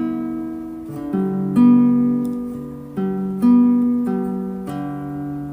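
Acoustic guitar playing a slow instrumental intro, a chord struck about once a second and left to ring out and fade.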